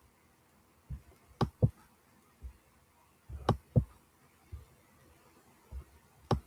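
Quiet pause broken by about eight short, soft clicks at uneven intervals, some in quick pairs.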